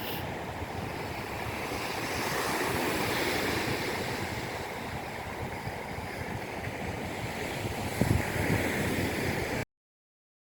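Steady rushing noise like wind or surf, swelling a little in the middle, with a single thump about eight seconds in. It cuts off suddenly just before the end.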